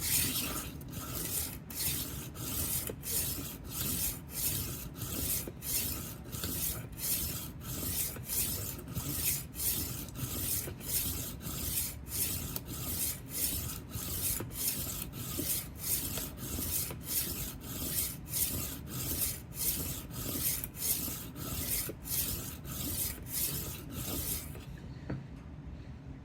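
Rolling knife sharpener's 240-grit abrasive plate rasping along the steel edge of a 12-inch Henckels chef knife in regular back-and-forth passes, a little under two strokes a second, stopping shortly before the end. The passes are raising a burr on the edge.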